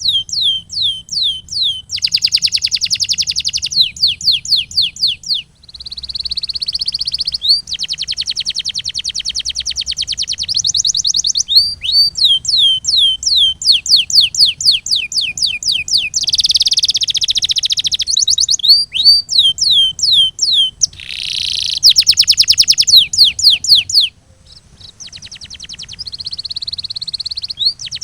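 Domestic canary singing: series of repeated downward-sweeping whistled notes alternating with fast rolling trills, in long phrases with a couple of brief pauses.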